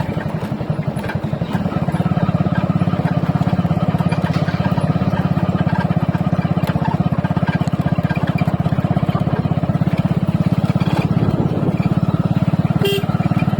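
Motorcycle engine running steadily under way, a fast even low pulsing.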